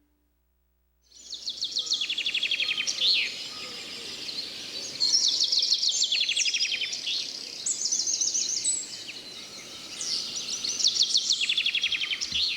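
Birdsong in forest ambience: a bird sings about four phrases of fast, rapidly repeated high notes, starting about a second in after a brief silence, over a steady background hiss.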